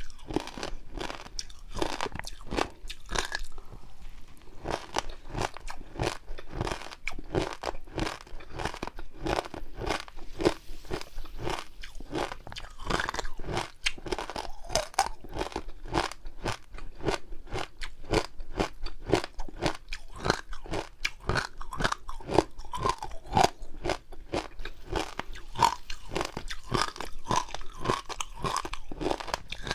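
Close-miked eating: a person chewing with rapid, crisp crunches, many small bites in quick succession.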